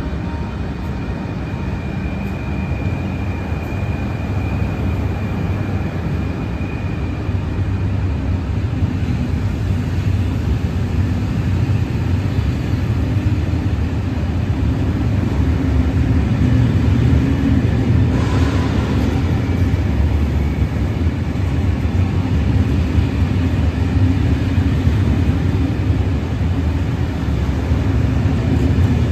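A train running through the station: a steady low rumble that slowly grows louder. A thin high whine sounds over the first several seconds, and a short hiss comes about eighteen seconds in.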